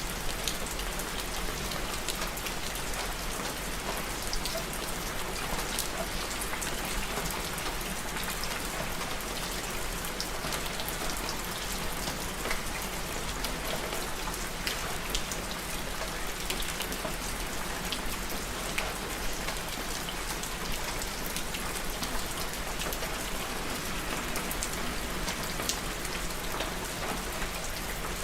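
Steady rain falling, with an even hiss and many individual drops pattering on a surface.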